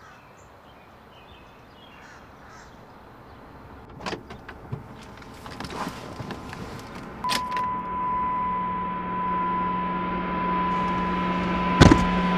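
Car handled from the inside: scattered clicks like keys and door parts, then a steady high tone and a low hum come on about seven seconds in, and a single sharp thump near the end.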